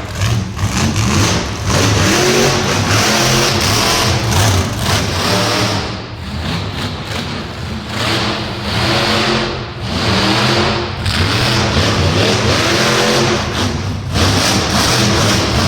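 Monster truck engine running hard and revving, its pitch rising and falling several times, with brief easings about six seconds in and again near the end.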